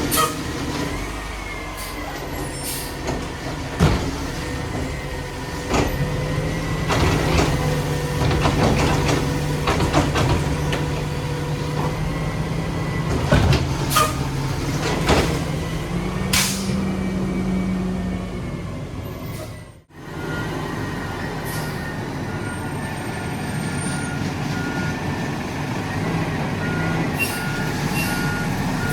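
Mack LR garbage truck with a Labrie Automizer side loader at work: the diesel engine running under load with a steady hydraulic whine, broken by sharp clanks and clatter and air-brake hisses. About two-thirds through the sound cuts out briefly, then picks up again with a regular run of short beeps, typical of a truck's reversing alarm.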